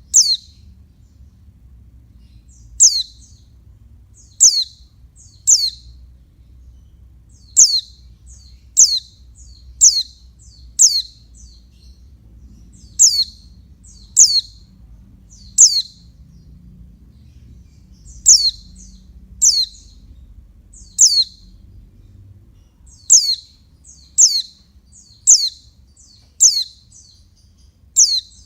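Female white-eye (pleci) giving short, high, downward-sweeping chirps, one about every second with occasional pauses of two seconds or so, about twenty in all.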